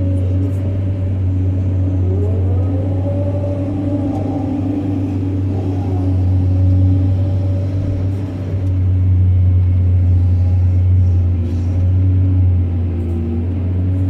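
Diesel engine of a heavy earthmoving machine running steadily with a deep drone, with a higher whine that rises about two seconds in.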